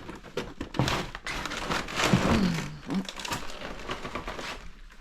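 Footsteps and handling of debris in a cluttered room: an irregular run of knocks, clicks and rustles, with a short falling creak about two seconds in.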